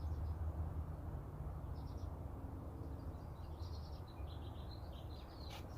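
Birds chirping in short repeated bursts over a steady low hum.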